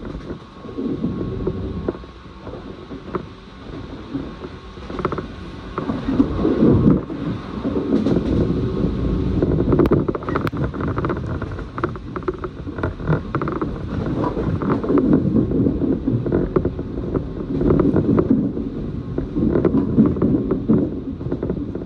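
Running noise heard inside a commuter train carriage between stations: wheels rumbling on the rails, with creaks and clicks from the carriage. It grows louder about six seconds in.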